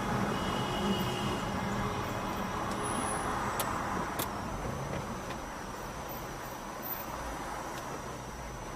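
Road and engine noise of a moving car as picked up by a dash camera, a steady rushing that slowly gets quieter, with a thin high whine and a couple of faint clicks partway through.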